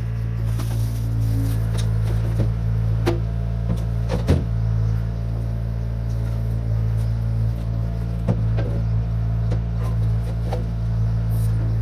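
1972 Chevrolet C50 dump truck's engine running steadily with a low drone, with scattered knocks and rattles, the loudest about four seconds in.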